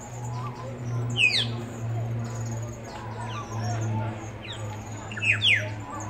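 Birds calling: sharp whistled calls that slide steeply down in pitch, one pair about a second in and a louder cluster near the end, with faint short chirps between. A steady low hum runs underneath.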